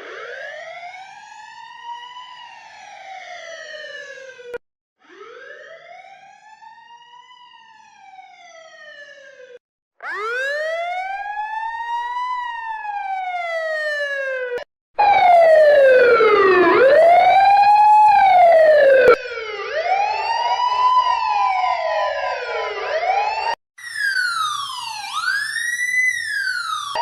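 Emergency vehicle sirens in a run of about six short clips cut end to end. Each clip is a slow wail that rises and falls in pitch over a few seconds, and the clips from about halfway on are louder, some with overlapping sweeps.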